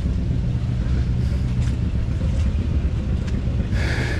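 An engine running steadily at idle, a low constant hum and rumble.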